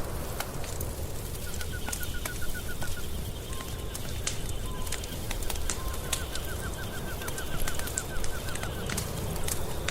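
Wood fire crackling with frequent sharp pops over a low steady rumble. Twice a bird gives a rapid trill of short repeated notes, each lasting a couple of seconds.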